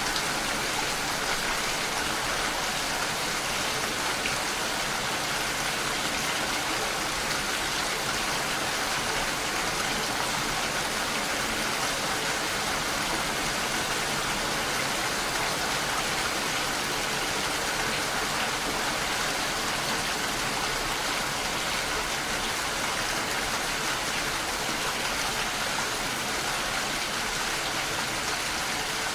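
Steady rain falling, an even hiss of many drops that keeps the same strength throughout.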